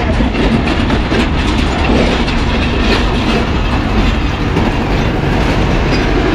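Railway passenger coaches rolling past, steel wheels clattering over rail joints above a steady rumble.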